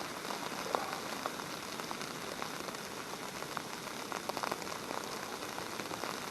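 Food sizzling in a small pan on a camp stove: a steady hiss with scattered light crackles.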